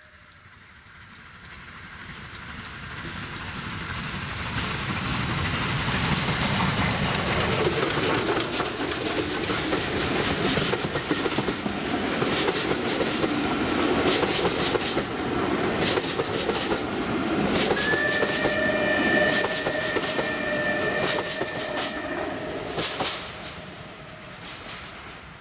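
Steam-hauled train approaching and passing close by, with wheels clicking over the rail joints, then dropping away near the end. A steady high tone sounds for about four seconds while the train is passing.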